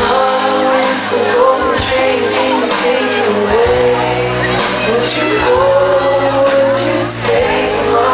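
Live music with singing in a large hall: a drawn-out vocal melody over the accompaniment, with some shouts from the audience.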